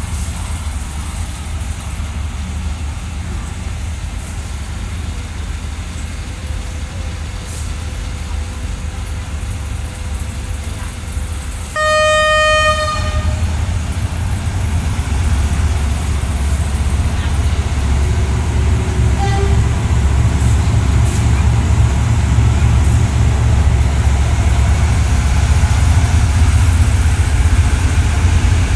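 Thai local train's diesel-electric locomotive, a GE CM22-7i, with its horn sounding one blast of about a second partway through, over a low steady rumble from the train. After the horn the rumble slowly grows louder as the train starts to pull out.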